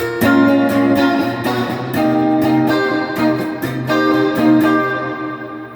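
Donner DST-200 electric guitar played clean through an amplifier: a quick run of picked notes and chords, fading out near the end, with a steady low hum under it. It is played with two pickups selected and the push-pull knob pushed in, to hear whether the knob changes the volume.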